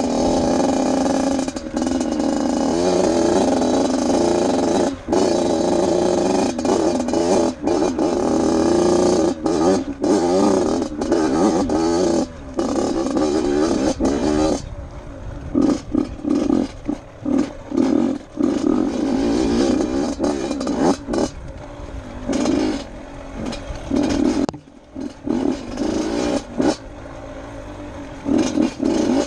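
Off-road motorcycle engine running under a rider on a rocky trail. The throttle is held fairly steady for about the first half, then chopped on and off in short bursts, roughly one or two a second.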